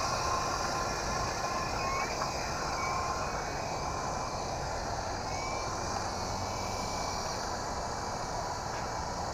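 Small electric toy RC helicopter flying high overhead: a steady, faint motor-and-rotor whine that wavers a little in pitch over a constant outdoor noise. Its battery is nearly spent.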